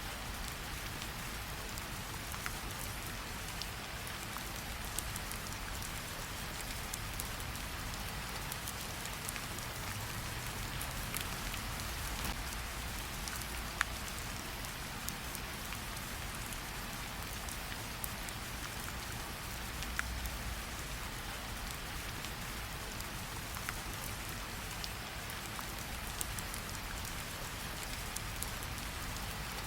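Steady rain hiss mixed with a crackling campfire: scattered sharp pops and clicks over the even rain noise, with a couple of louder pops around the middle.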